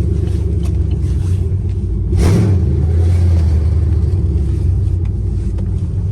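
Chevrolet Camaro SS V8 running with a loud, deep rumble through an unfinished aftermarket exhaust, with a brief louder surge about two seconds in.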